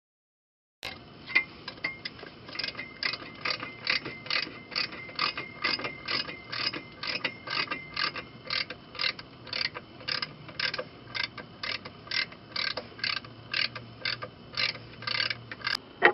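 Ratchet wrench clicking in a steady rhythm, about two strokes a second, as a fastener is turned.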